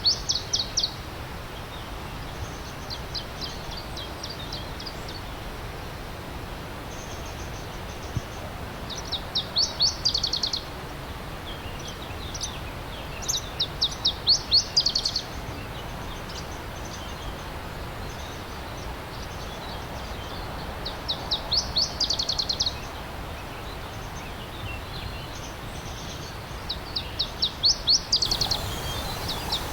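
A songbird repeating a short song phrase about every four to six seconds, each a quick run of about ten high notes that grows louder before stopping, over the steady rush of a flowing stream.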